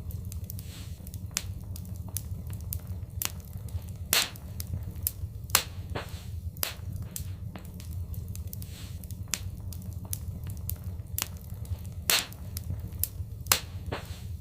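Fireplace fire crackling, with irregular sharp pops of burning wood, a few of them much louder, over a steady low rumble of the flames.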